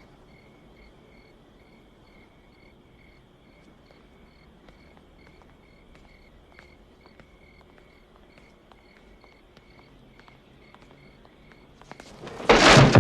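Crickets chirping steadily in a regular rhythm of a few chirps a second. Near the end a sudden loud burst of noise breaks in.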